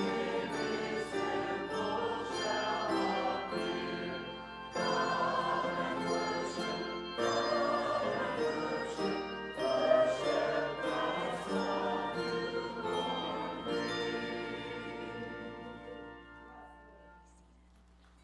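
Church choir singing with instrumental accompaniment. The music dies away over the last few seconds.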